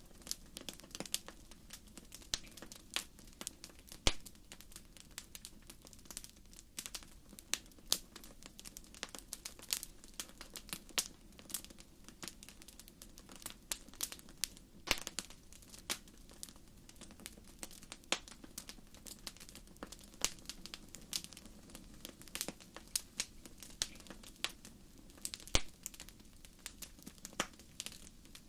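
Wood fire in a fireplace crackling: irregular sharp pops and snaps over a faint steady low hiss, with a louder pop about four seconds in and another near the end.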